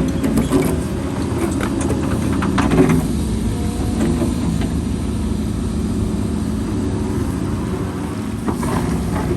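Heavy diesel machinery engine running steadily, with a few short knocks or clanks about two to three seconds in and again near the end.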